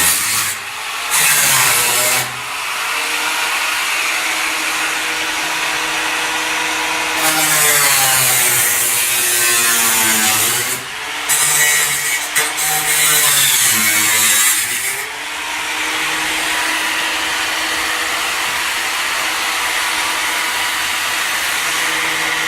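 A hand-held power tool running, its motor note dropping and recovering again and again as it is pressed into the work.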